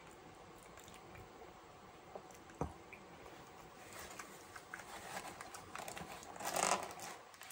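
A man chewing and biting into cheese-and-sauce-covered fries close to the microphone, with small wet mouth clicks, one sharper click about two and a half seconds in, and a louder noisy rush near the end.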